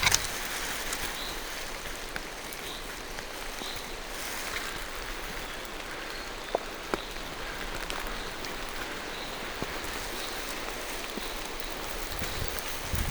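Steady rain falling through forest trees, an even patter with a couple of louder single drips about two-thirds of the way in.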